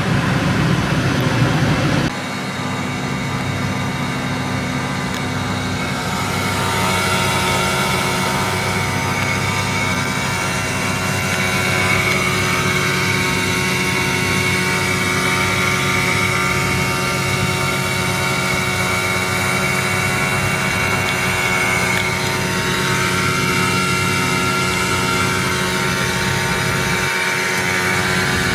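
Ferrari SF90 Spider's twin-turbocharged V8 idling steadily, with a high whine over the engine note.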